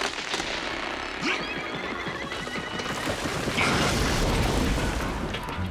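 Cartoon sound effects: a dense, continuous rumbling clatter of many quick impacts, with a few short squeaky glides in the first half, loudest about four seconds in.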